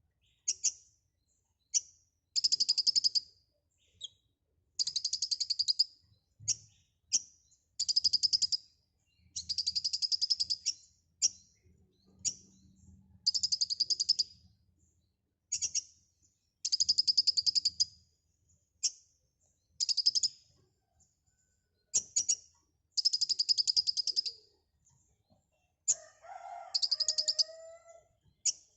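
Kolibri ninja (a small sunbird) singing: high, rapid trilled phrases of one to two seconds, repeated again and again with short single chirps between them. A lower, drawn-out call comes in near the end.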